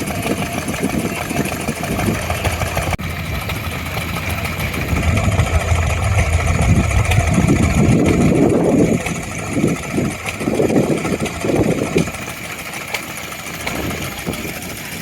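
A vintage engine running, with louder uneven spells through the middle of the stretch; the sound drops back about twelve seconds in.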